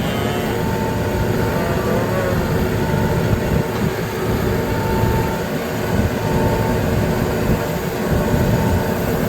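Farm tractor engine running steadily while driving, with a short tone repeating about every second and a half.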